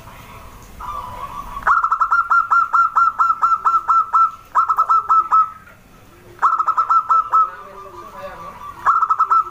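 Zebra dove (perkutut) calling: bursts of rapid staccato notes, about six or seven a second, repeated four times with short pauses between, over fainter low cooing.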